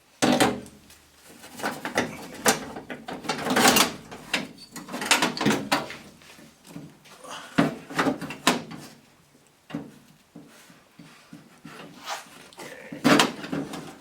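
Irregular knocking, clanking and scraping of metal parts and tools handled while a pickup truck door is taken apart. It starts abruptly, and the loudest clank comes near the end.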